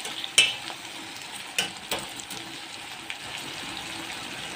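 Onions frying in oil, a steady sizzle, with a few knocks of the stirring spoon against the pan in the first two seconds.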